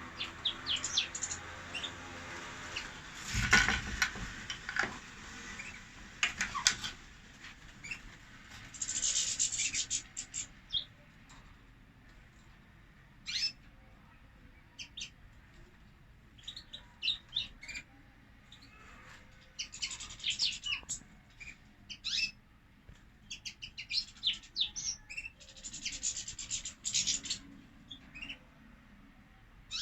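Caged goldfinches calling in short bursts of high chirps and twitters, with a loud thump about three and a half seconds in.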